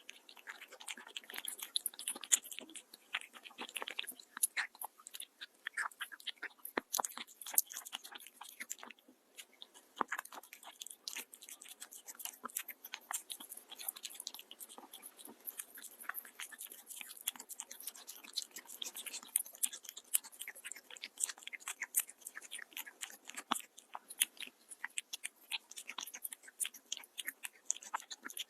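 A cat chewing and crunching its food: a steady run of quick, irregular bites and crunches.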